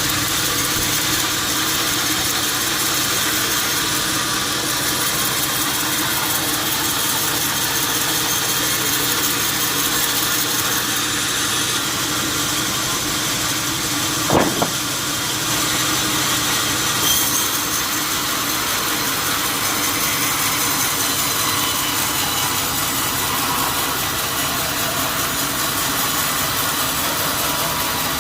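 Steady mechanical drone, with one sharp click about halfway through.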